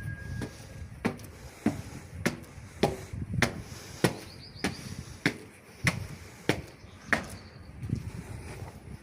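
A steady series of sharp knocks, about one every 0.6 seconds, some eleven in all, stopping about seven seconds in.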